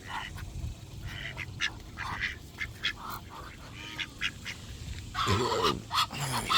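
Ducks quacking around a person feeding them: many short, quick calls at first, then louder, drawn-out calls starting about five seconds in as more birds crowd in.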